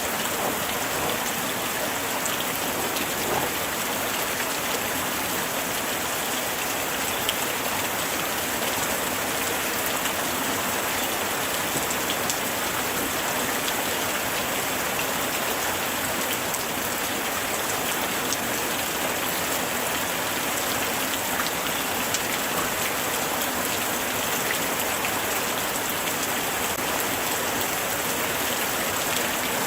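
Steady light rain falling, an even hiss with scattered small drop ticks.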